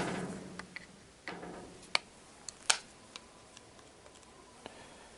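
Sparse small clicks and taps of hand tools on small screws as the brush holder of a GAZelle van's heater fan motor is unscrewed. The two sharpest clicks come about two seconds in and a little after.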